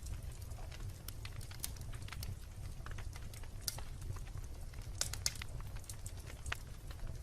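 Wood campfire crackling: irregular sharp pops and snaps, a cluster of the loudest about five seconds in, over a low steady rumble.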